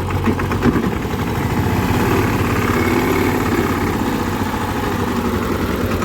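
Diesel engine running steadily, with the engine note rising a little about a second or two in, as if taking on load or throttle.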